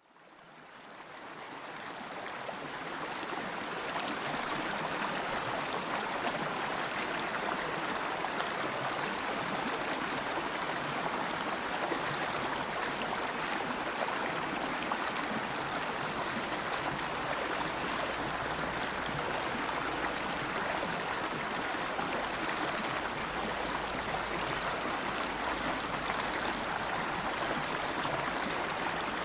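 River water flowing in a steady, even rush, fading in from silence over the first few seconds.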